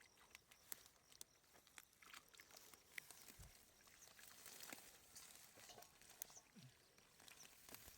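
Near silence with faint scattered clicks and rustles, and one low thud about three and a half seconds in.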